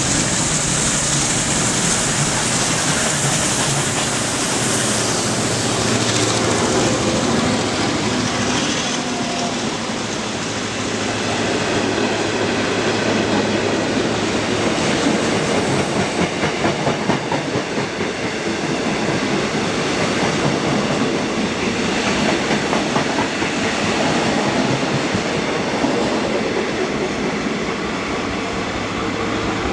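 Steam-hauled train running on the line, a steady loud rumble and rattle with hiss in the first few seconds. About two-thirds of the way through there is a quick run of evenly spaced beats.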